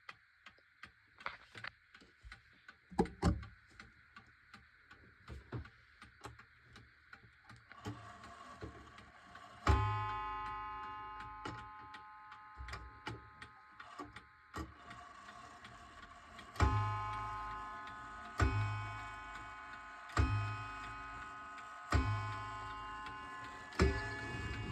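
1920s Seth Thomas beehive mantel clock ticking, then striking. Ringing strikes begin about ten seconds in, and later come as a regular series roughly two seconds apart, each note ringing on and fading, as the clock strikes the hour.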